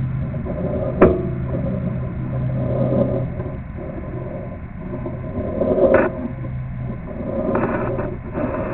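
Steady low mechanical hum and rumble, with a sharp knock about a second in and a louder clunk near six seconds.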